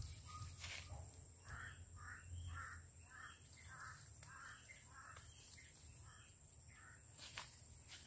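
A bird calling faintly, a run of about ten short calls at about two a second that stops about seven seconds in, over a steady high whine, with a few sharp rustling snaps from plants being handled.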